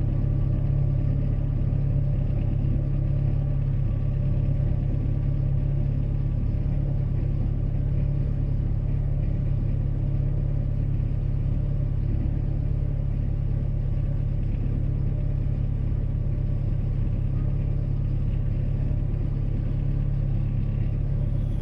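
Boat engine running steadily under way, a low, even drone that does not change.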